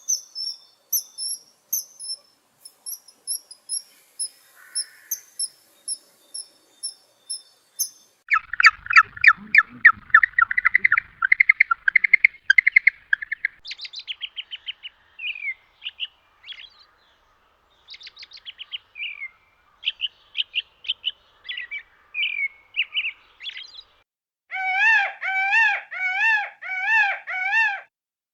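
A run of animal calls, largely bird-like: very high, thin repeated chirps, then loud rapid trills and varied song-like phrases, then about seven wavering calls repeated in quick succession near the end.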